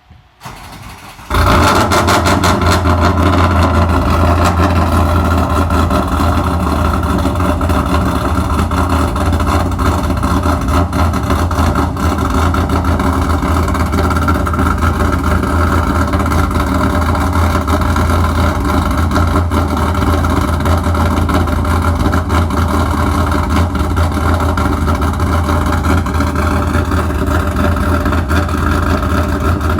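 2001 Camaro SS's LS1 V8, fitted with an MS4 cam, long-tube headers, catless Y-pipe and SLP Loudmouth muffler, cold-starting: a short crank, the engine catches about a second in, then settles into a loud, choppy idle.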